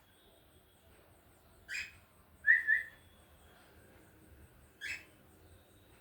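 Cockatiel whistling and chirping: a short chirp, then a loud two-note whistle, then another short chirp.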